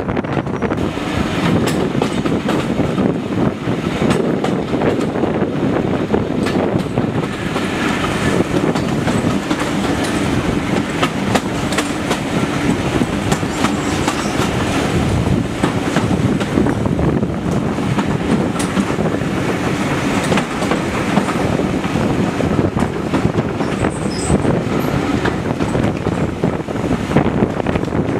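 Passenger coaches of a train running along the line, heard from an open carriage window: a steady rolling rumble of wheels on rails with a continual clatter of clicks as the wheels cross the rail joints.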